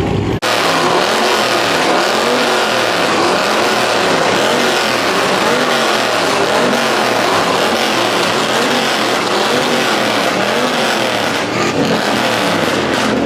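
Car engine revving up and down again and again, with tires squealing, starting after a sudden cut about half a second in.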